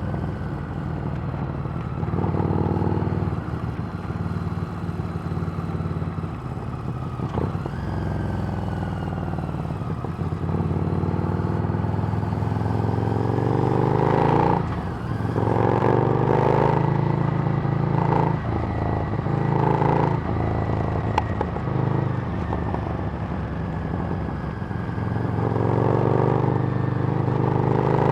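Harley-Davidson Street Rod's V-twin engine running through a Screamin' Eagle exhaust while riding, its note rising and falling as the throttle opens and closes and the gears change.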